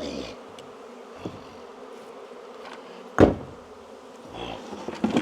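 Swarm of honey bees buzzing steadily around an open hive. A single loud knock about three seconds in, with smaller knocks near the start and the end.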